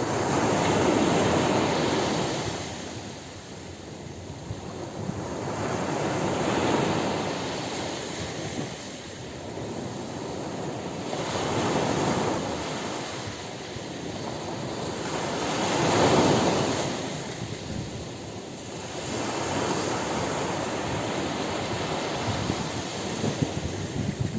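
Ocean surf breaking on a beach: waves rush in and wash back, swelling and fading about every four to five seconds, the loudest a little past the middle.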